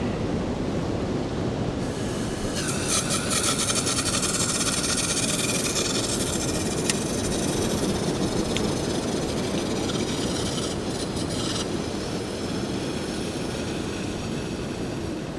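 Gas hissing from a Fire-Maple camp stove burner with a whistling squeal, starting about two and a half seconds in and stopping about nine seconds later, with a single sharp click near the middle: the built-in piezo igniter failing to light it. Steady wind noise runs under it.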